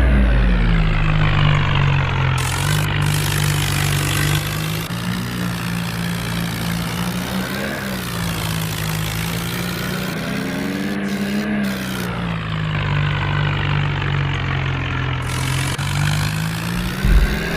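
Tractor engine running steadily under load, its pitch sagging and recovering twice partway through.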